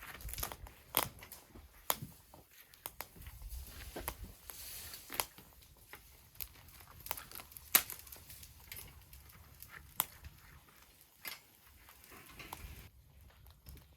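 Twigs and dry cedar leaves crackling as they burn in a small secondary-combustion wood stove, with irregular sharp pops a second or so apart.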